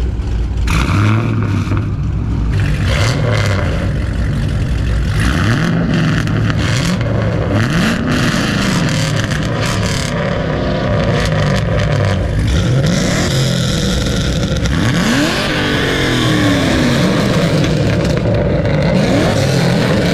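Several fifth-generation Chevrolet Camaro V8s revving in turn and together, each blipped up and dropping back again and again, overlapping throughout.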